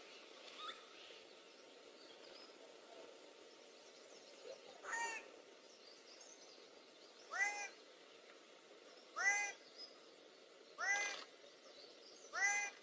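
Blue bird-of-paradise calling: five short, ringing notes, each arching in pitch. The first is fainter, about five seconds in; the other four are louder and come about every two seconds, over a faint steady background hiss.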